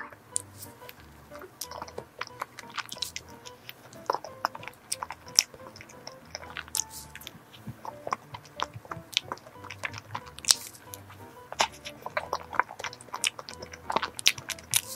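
Close-miked chewing of a soft, moist cream-filled chiffon cake sandwich, with many irregular wet mouth clicks and smacks, over background music.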